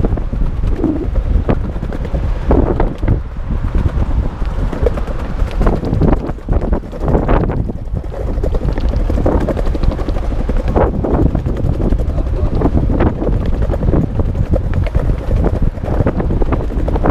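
Wind buffeting the microphone over the rolling rumble of longboard wheels on pavement, loud and gusty throughout.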